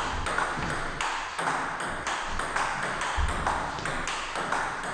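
Table tennis rally: the celluloid-type plastic ball clicks off the table and the rubber-faced bats in a quick, even run of sharp pings, about two to three a second.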